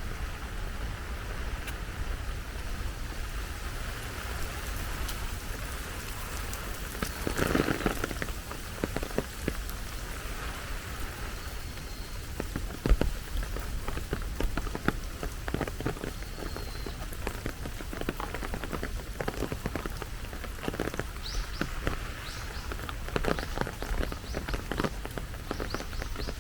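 Rain falling steadily, with many drops ticking and pattering on surfaces, and a brief louder swell about eight seconds in. Near the end a bird chirps several times.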